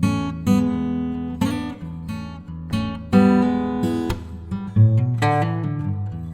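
Background music: acoustic guitar strummed and picked, chords struck about once a second and left to ring.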